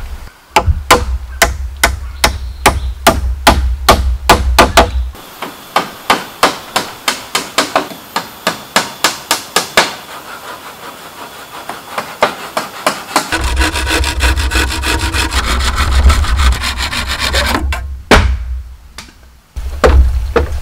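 Bamboo being cut with a hand saw in quick back-and-forth strokes, about four or five a second. The strokes stop briefly in the middle, then start again faster and denser.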